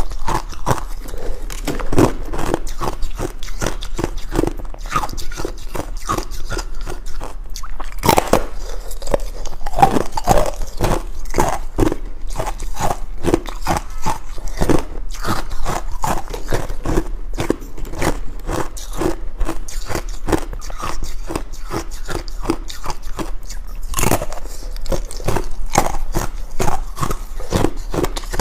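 Ice being bitten and chewed, a rapid run of crisp cracks and crunches with a few sharper, louder bites.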